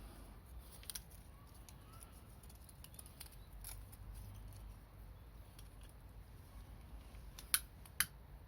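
Small wood campfire crackling faintly, with scattered light ticks and two louder sharp snaps about half a second apart near the end.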